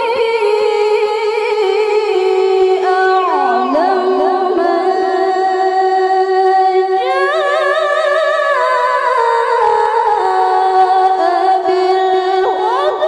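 A woman reciting the Qur'an in the melodic tilawah style, holding long high notes with fine ornamented turns. The pitch dips briefly about three and a half seconds in, then climbs to a higher register about seven seconds in.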